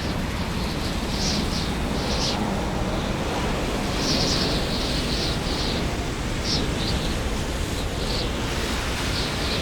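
Snowstorm wind rushing over the microphone: a steady rumbling hiss, with short, higher hissing spurts every second or so.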